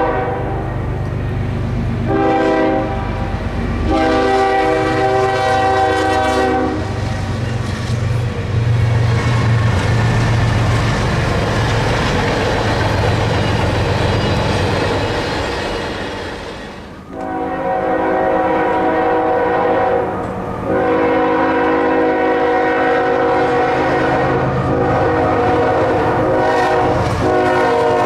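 Freight locomotive air horn sounding a multi-note chord in several blasts. Between them, about ten seconds of a passing train's rumble and wheel clatter, with a low diesel drone. Two more long blasts start about two-thirds of the way in, the last held to the end.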